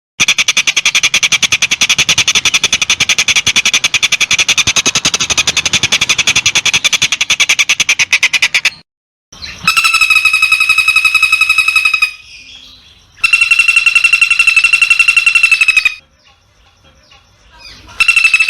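Recorded animal calls, hard-edited: a very fast, even rattling trill for about nine seconds, then three steady-pitched buzzy trills of two to three seconds each, separated by short gaps.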